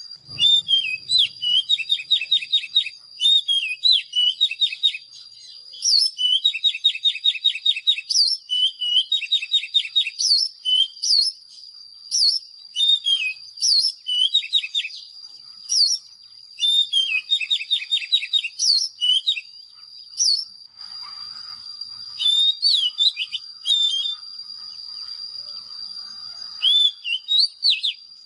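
Oriental magpie-robin singing: repeated phrases of rapid trilled notes and sharp upswept whistles, broken by short pauses. A steady thin high-pitched tone runs underneath.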